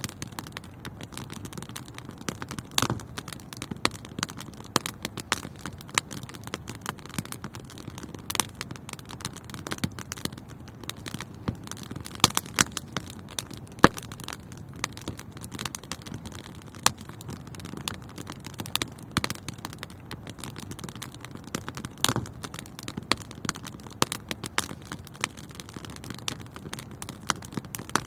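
Wood fire burning in a fireplace, with a steady low rumble of flames and frequent sharp crackles and pops at irregular intervals.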